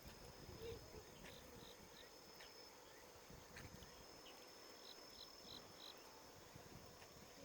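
Faint insect song: a steady high trill with scattered short chirps, and a run of four quick chirps about two-thirds of the way in.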